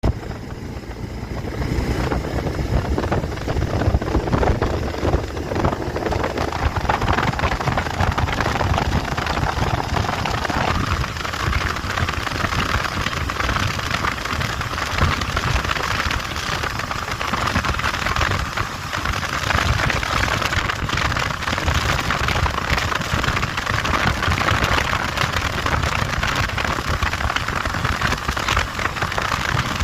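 Motorcycle on the move: wind rushing over the microphone on top of a low engine rumble. The noise shifts higher about ten seconds in.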